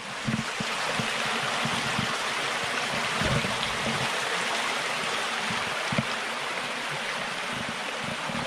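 A stream rushing steadily over rocks, an even wash of water noise, with a few soft low knocks mixed in.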